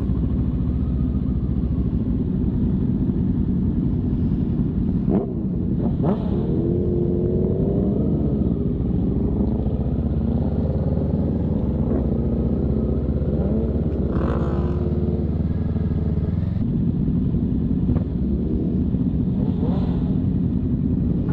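Sport motorcycle engines idling and running, with the engine note rising and falling a few seconds in, as if revved. A couple of sharp clicks come about five and six seconds in.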